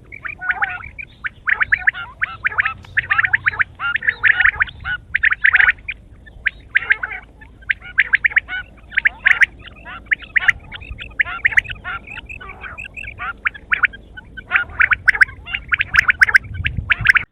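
Quail calling: dense, rapid runs of short chattering calls, many overlapping, broken by brief lulls.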